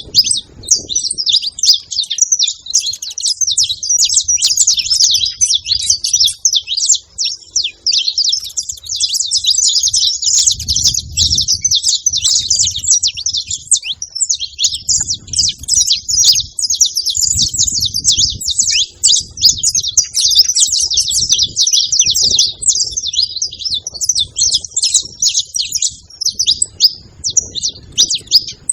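A flock of saffron finches chirping and calling together, many short high chirps overlapping in a continuous chatter, with a few faint low rumbles underneath.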